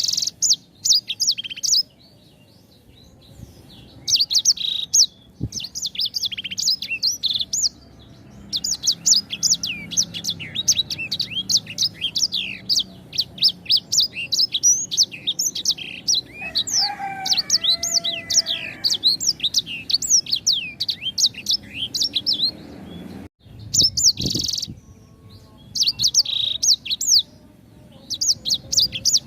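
Sanger songbird singing runs of fast, high-pitched chirps and twitters, broken by short pauses, with a lower call mixed in about two-thirds of the way through.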